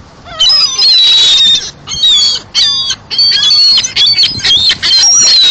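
Birds calling loudly in a rapid string of high-pitched notes that slide up and down, with short breaks between the bursts.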